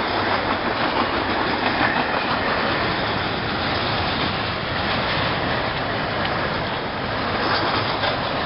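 Freight train cars rolling past at close range: a steady din of steel wheels on the rails with a clatter of wheels over rail joints.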